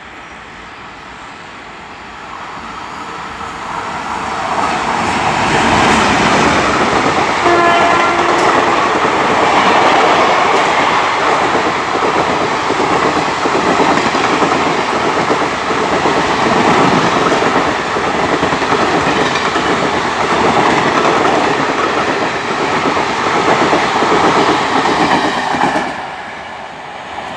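Passenger express train running through a station at about 110 km/h: a rising rush of wheel and rail noise as it approaches, then a continuous loud clatter of wheels over the rail joints as the coaches pass. A brief steady tone sounds about eight seconds in. The noise drops off suddenly near the end as the last coach goes by.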